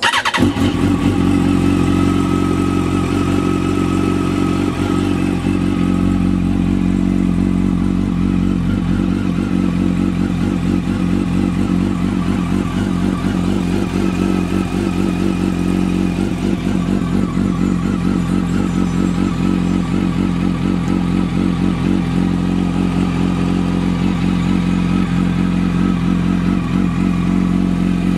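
Yamaha R1's inline-four engine running through a Two Brothers aftermarket exhaust. It comes in abruptly right at the start, then idles steadily with an even, unchanging pitch.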